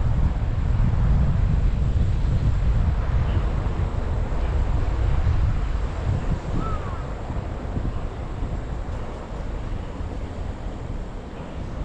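Wind buffeting the action camera's microphone while cycling: a steady low rumble that eases off about halfway through.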